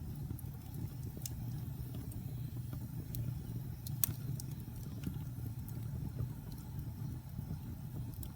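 Wood logs burning in a fireplace: a steady low rumble of flame with scattered crackles and pops, the sharpest about four seconds in.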